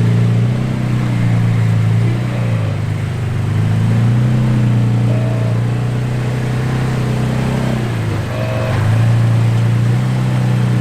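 Off-road vehicle's engine running steadily under light throttle. Its speed drops briefly twice and then picks back up.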